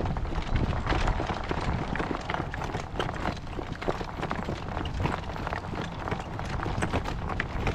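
A ridden horse's hooves striking the ground in a run of quick, irregular clip-clops, over a steady low rumble.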